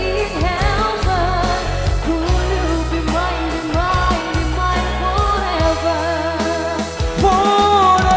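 A singer holding long, wavering notes with strong vibrato in a high voice over a band accompaniment with a steady bass line.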